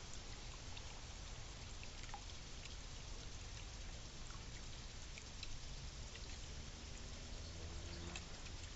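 Steady rain falling, a continuous hiss with scattered sharp drips.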